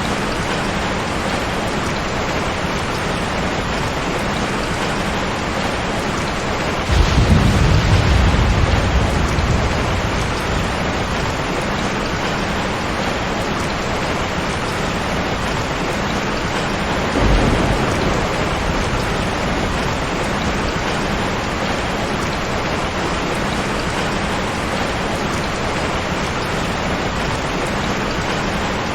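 Steady rain falling, with two rolls of thunder: a loud one about seven seconds in that dies away over a few seconds, and a weaker one about ten seconds later.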